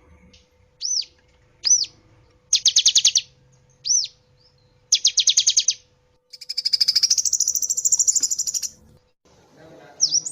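Cinereous tit (gelatik batu) calling: single high arched whistles, two short fast trills, then a longer buzzy rapid series of notes lasting about two seconds. A faint steady hum runs underneath for most of the clip.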